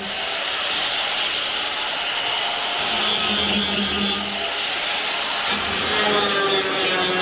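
Handheld power tool running continuously against metal, cutting or grinding steel in the rust repair of a Ford Capri suspension top, its motor tone fading in and out beneath the steady noise.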